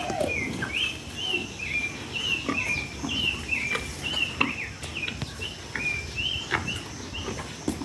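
A bird calling over and over, short chirping notes about twice a second, with a few light knocks underneath.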